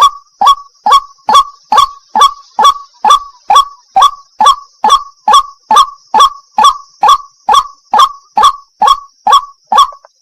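White-breasted waterhen calling: one sharp 'wak' note repeated evenly about twice a second, with a steady high hiss behind it.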